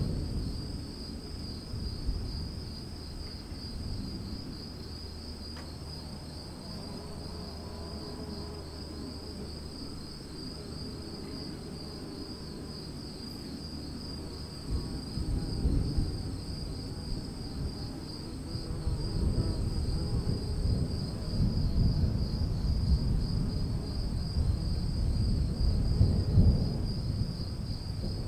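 Crickets chirping steadily under a low rolling rumble of distant thunder; the thunder swells louder from about halfway through.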